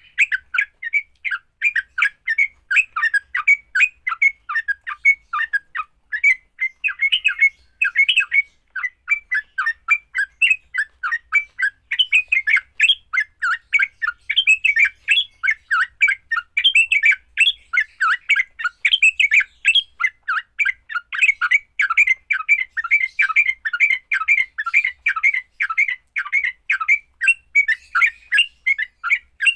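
Yellow-vented bulbul (trucukan) giving its rapid fighting call: a continuous run of short, chattering notes, several a second, without a break.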